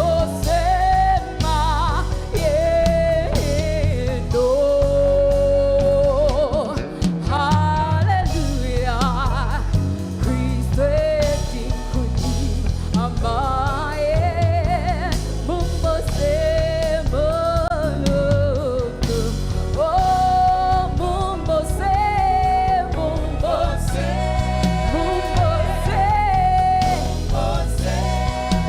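Gospel praise music: a lead voice singing a melody with a choir, over a live band with bass and drums.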